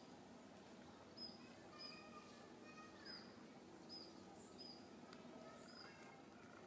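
Quiet outdoor ambience with a bird repeating a short, high chirp about once a second, and a few fainter bird calls mixed in about two to three seconds in.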